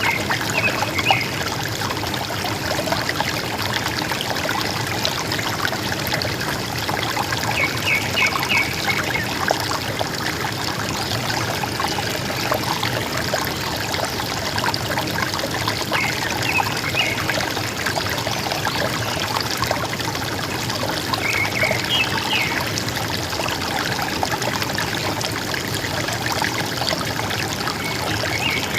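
River water running with a steady gurgle. A bird gives a short call of a few quick high notes about every six to eight seconds, five times in all.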